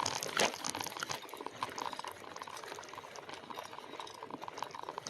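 Bicycle tyres rolling over a rough single-track dirt trail, with a continuous dense crackling and rattling.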